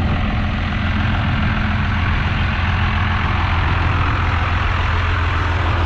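Truck engine idling steadily, a low even hum that doesn't change.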